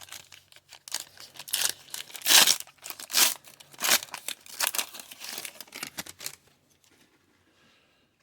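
Crinkling and rustling of thin plastic card packaging: a foil pack wrapper or plastic card sleeves handled in the hands. It comes in quick, irregular rustles and stops about six and a half seconds in.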